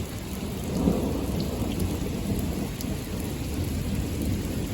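Steady rain falling during a thunderstorm, with a low rumble of thunder underneath that swells slightly about a second in.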